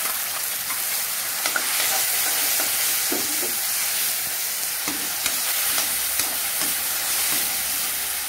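Onions, tomato and curry leaves sizzling in hot oil in a kadai, stirred with a steel ladle. The ladle scrapes and taps against the pan every so often.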